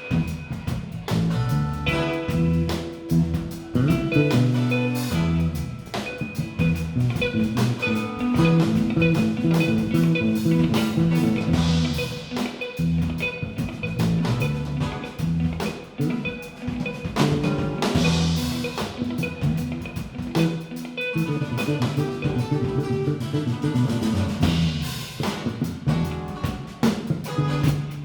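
Live band playing an instrumental passage: guitar over a steady drum-kit beat.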